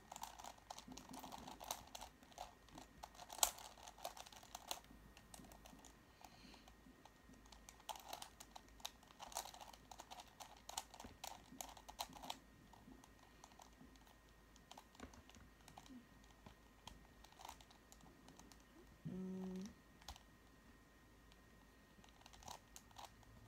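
A Megaminx puzzle being turned by hand: quick runs of light plastic clicks, busy at first and sparser later. A brief low hum sounds a few seconds before the end.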